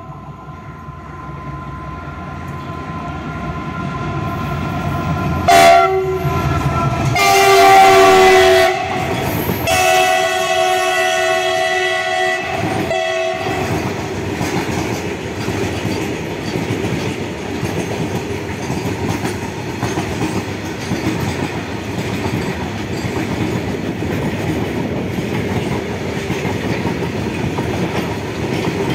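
WDG6G diesel goods locomotive sounding its multi-tone horn as it approaches, in several blasts through the first half, loudest in a long blast about seven to nine seconds in. After the horn stops, a long rake of covered goods wagons rolls past with steady wheel clatter.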